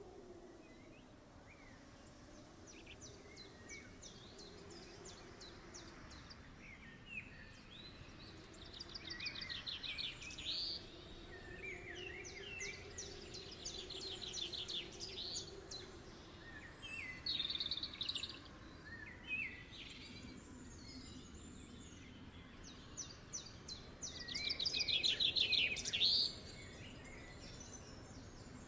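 Birds singing, with repeated bouts of rapid high chirping trills over faint background noise; the loudest bout comes a little before the end.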